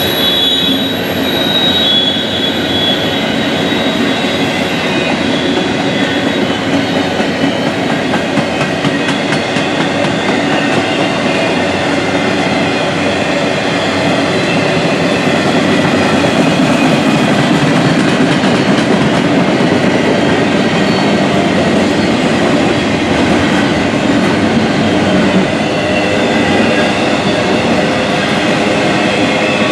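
Freight cars rolling past on the rails with a steady rumble and rattle of wheels. A high wheel squeal sounds in the first few seconds and then fades.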